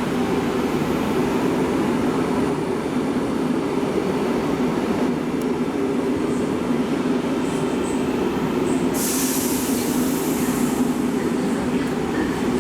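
SNCB class AM96 electric multiple units running in the station with a steady low rumble and hum. A loud hiss lasting about two seconds starts about nine seconds in.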